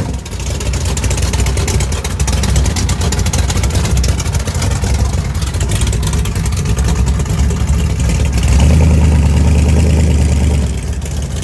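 A loud car engine and exhaust running with a rapid, rough pulse, revving harder for about two seconds near the end before dropping back.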